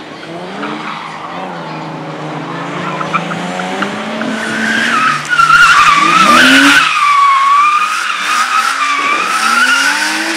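Slalom car driven hard, its engine revving up and down as it approaches, then its tyres squealing loudly and wavering in pitch from about four seconds in as it slides through the turns.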